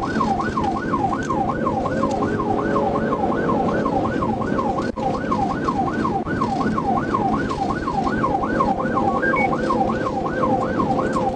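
Police car siren on its fast yelp, warbling up and down about three times a second, over steady engine and road noise from a pursuit at high speed.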